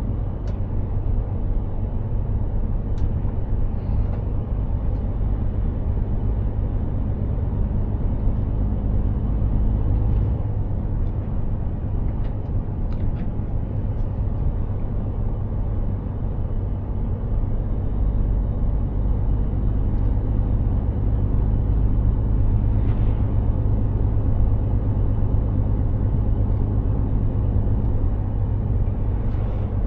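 Mercedes-Benz Actros 2763 truck under way: its diesel engine drones steadily at an even pitch, with the rumble of tyres on the road.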